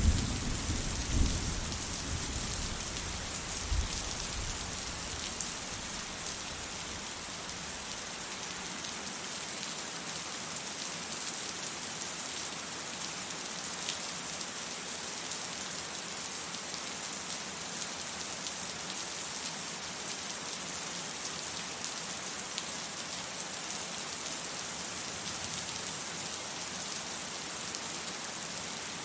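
Steady heavy rain hissing, with the tail of a low thunder rumble fading out over the first few seconds.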